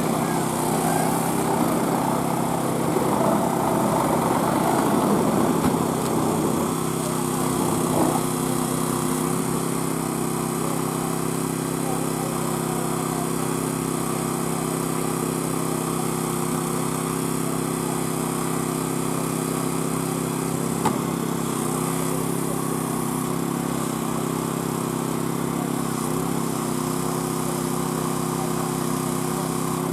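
An engine running steadily at constant speed, with some louder mixed activity in the first few seconds and a single sharp click about 21 seconds in.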